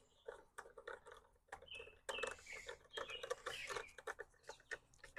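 Small birds chirping, mixed with scattered light clicks and knocks of parts and tools being handled on the mower.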